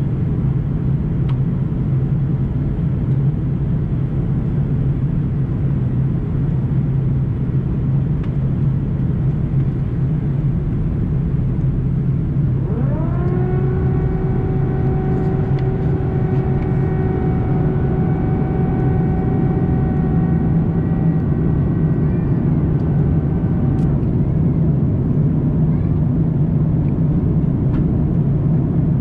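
Steady cabin rumble of an Airbus A340-300 in flight on descent. About twelve seconds in, a whine rises in pitch, levels off and holds for about ten seconds, then stops.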